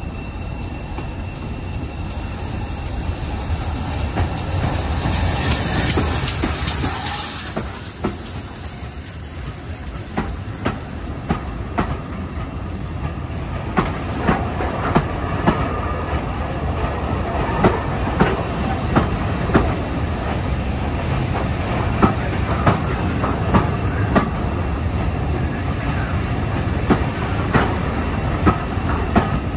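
Heritage railway train running on jointed track: a steady rumble with sharp clicks of the wheels over rail joints, often in close pairs, from about ten seconds in. A hiss swells and dies away in the first seven seconds.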